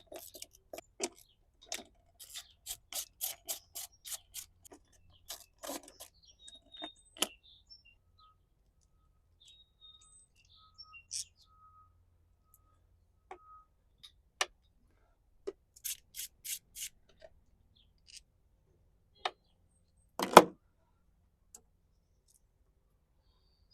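Hand tools working on a Yamaha F150 outboard's thermostat cover: runs of sharp clicks at about four a second, scattered single clicks, and one louder knock near the end.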